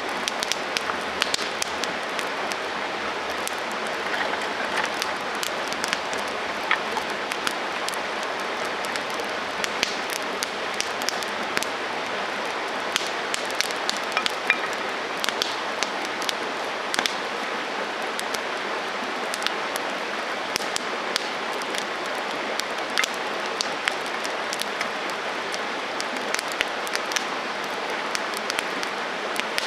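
Wood campfire burning, a steady hiss and rush of flame with frequent sharp crackles and pops scattered irregularly throughout.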